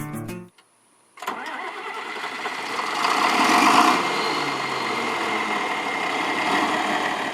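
John Deere 4430 tractor's six-cylinder turbo diesel engine starting up, building over the first couple of seconds and then running steadily before cutting off suddenly near the end.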